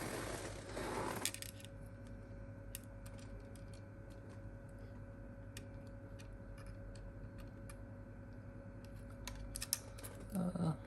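Small tools and fingers handling a smartphone's parts during a screen repair: a brief rustling scrape at first, then scattered light clicks and taps, with a quick run of clicks near the end, over a faint steady hum.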